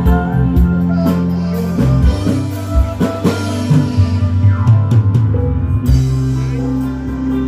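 Loud band music with a drum kit, guitar and heavy bass, played through a large PA sound system during a sound check.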